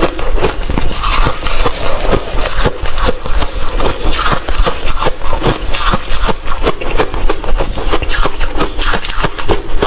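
Close-up crunching of hard refrozen crushed ice being chewed, a rapid continuous run of loud crunches.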